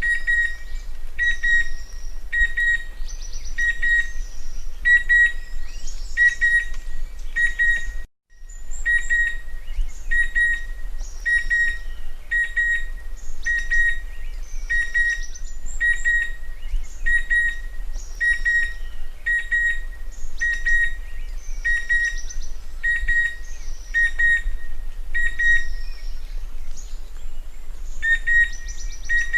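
Chestnut-winged cuckoo calling: a clear whistled note repeated about every 0.7 seconds in a steady series, broken once by a brief gap about eight seconds in, over a low hum.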